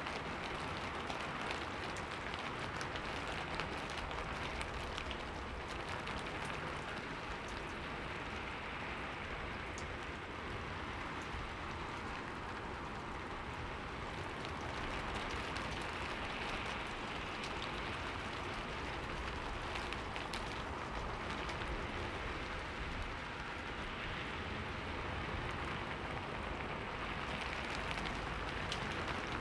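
Steady rain falling on a window pane, with a constant hiss and many small drop ticks.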